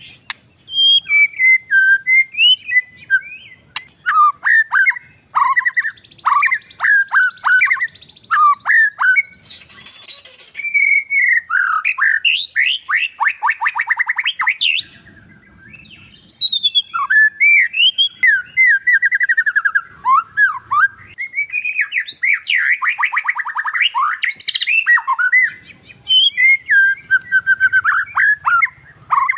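Oriental magpie-robin (kacer) in full song: a loud, fast, varied stream of whistles, trills and harsh buzzy notes with only brief pauses, the kind of recording played to provoke other magpie-robins to sing.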